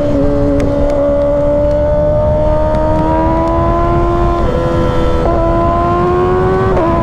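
Kawasaki ZX-6R's inline-four engine under way, its note climbing slowly, with brief dips a few times as the throttle eases, over wind rush on the microphone.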